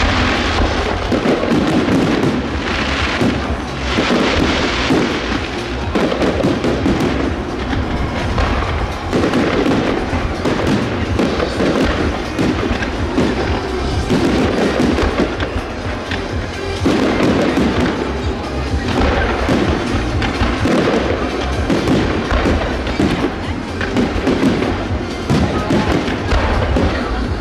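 Fireworks display: a continuous barrage of aerial shells bursting, with bangs and crackles in quick succession, and music playing along.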